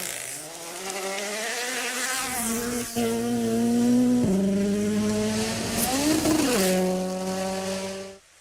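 Rally car engine running at high revs, dropping in pitch at a gear change about four seconds in, rising and falling quickly near six seconds, then cutting off abruptly just before the end.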